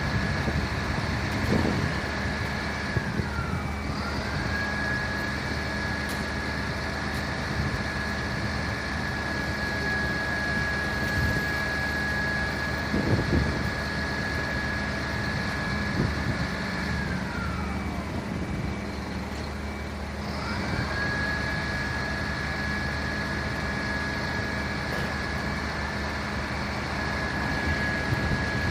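Fire engine siren holding a steady high wail that twice slides down in pitch and then climbs quickly back up, over a truck engine idling.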